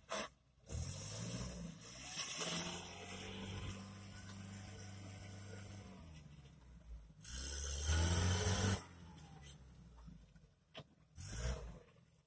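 A vehicle engine running with a low, steady drone, then revving up louder for about a second and a half near the middle, with shorter bursts near the start and end.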